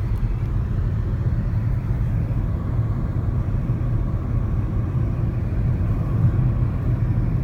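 Steady low rumble of a moving car, engine and tyre road noise, heard from inside the cabin.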